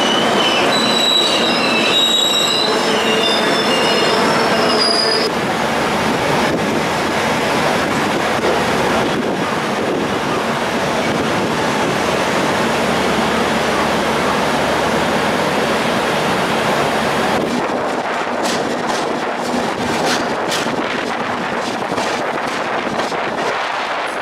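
Train running on the rails, its wheels squealing in a few high, wavering tones for the first five seconds. After that comes a steady rumble and rush, with a run of sharp clicks and knocks in the last third.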